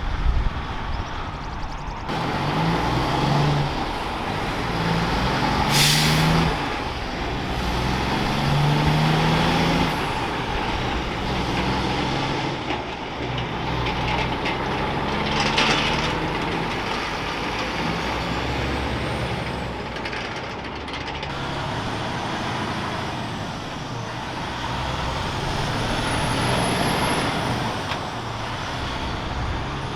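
Heavy diesel trucks running past, the engine note climbing and dropping in steps, with two short air-brake hisses about six and fifteen seconds in.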